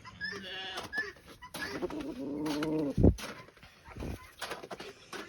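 Farm animals calling: a long drawn-out pitched call between about one and a half and three seconds in, ending in a thud, with scattered clicks and knocks around it.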